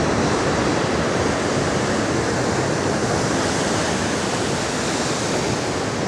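Steady rush of Pacific Ocean surf, with wind mixed in.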